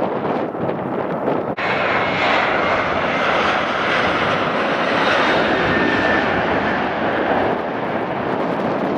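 Large jet airliner's engines on landing approach, a steady loud rushing with a faint whine. About one and a half seconds in the sound breaks off abruptly and resumes louder and brighter, as at a splice between clips.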